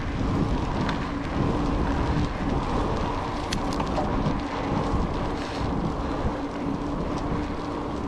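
Wind buffeting the microphone and road noise while riding in the rain, with a faint steady hum underneath.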